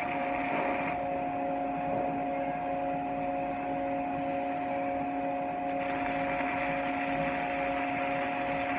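A machine running with a steady hum of several tones under a hiss. The higher part of the hiss drops away about a second in and comes back about six seconds in.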